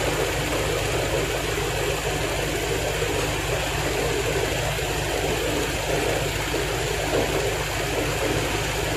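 Range Rover Sport SVR's supercharged V8 idling steadily with the air conditioning running during a refrigerant recharge, a low hum under an even hiss.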